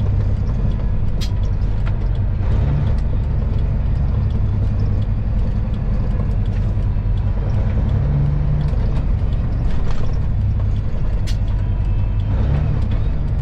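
Semi-truck's diesel engine running at low revs, heard from inside the cab as a steady deep drone. Two sharp clicks stand out, about a second in and near the end.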